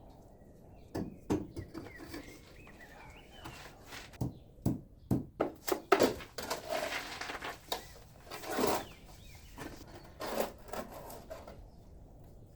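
Irregular knocks, taps and scrapes of hand tools working stone and mortar, coming in clusters with a couple of longer scraping strokes.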